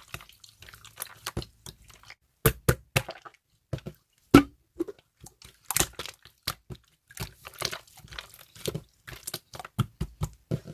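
Slime being squeezed and pressed by hand, giving irregular sticky pops and clicks at uneven loudness.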